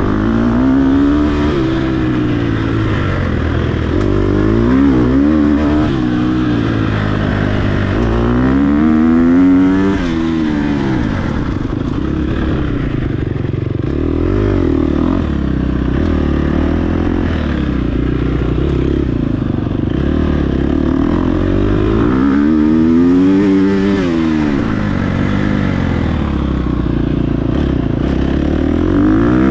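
Dirt bike engine revving up and dropping back over and over under the throttle, with its pitch climbing in strong swells about ten seconds in, again past the twenty-second mark and near the end.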